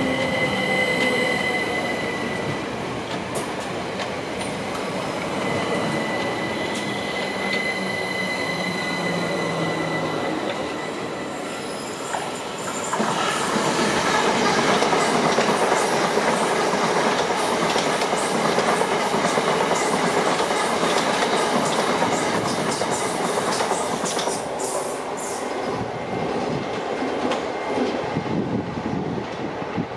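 Electrostar electric multiple-unit trains at a station platform. A steady high whine sounds in the first few seconds. A little under halfway through, a louder rushing rumble of a train on the move rises and holds, with wheels clicking over rail joints late on.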